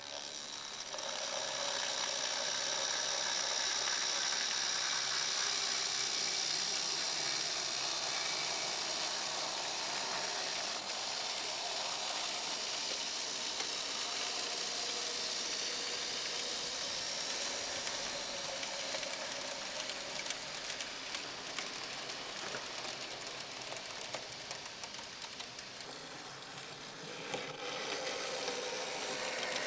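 Märklin mini-club Z-scale model train running on its layout: the locomotive's tiny electric motor gives a high whine, with the wheels clicking and rattling over the track. It starts up about a second in, eases off a little near the end and then picks up again.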